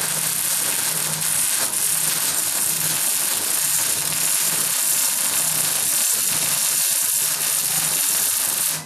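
Home-built pulse engine running with a loud, steady, harsh hiss that cuts off suddenly near the end.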